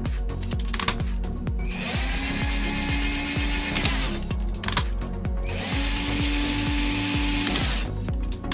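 A cordless drill's motor runs twice, about two seconds each time, rising in pitch to a steady whine and then stopping. Electronic music with a steady beat plays throughout.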